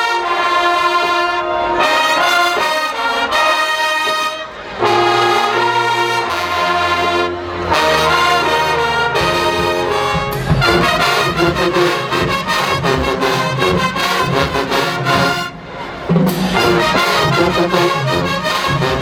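A marching band's brass section plays loud, held chords. Low bass-horn notes come in about five seconds in, and percussion joins about halfway. The playing breaks off briefly twice, once near the start and once near the end.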